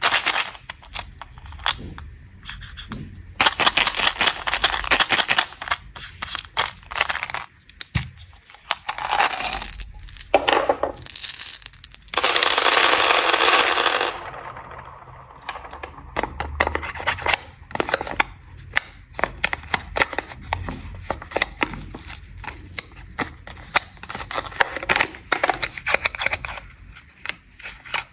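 Close-up crinkling, crackling and tearing of plastic snack wrappers being unwrapped, a dense run of sharp crackles and rustles, with a steady rush of tearing or rustling for about two seconds near the middle.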